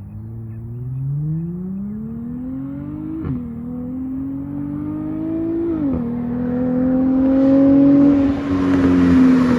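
Dodge Charger GT's 3.6-litre V6, straight-piped through Super 10 mufflers, accelerating at full throttle from a standstill. Engine pitch climbs steeply, drops sharply at two upshifts about three and six seconds in, and keeps pulling while rushing road and wind noise grows near the end.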